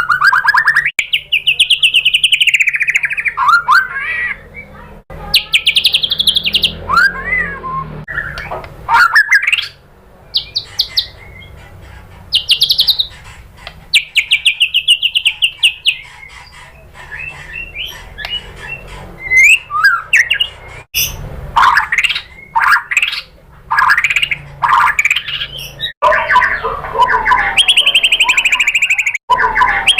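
White-rumped shama (murai batu) singing a long, varied song: gliding whistled phrases, warbling trills and bursts of rapid, sharp repeated notes, separated by short pauses.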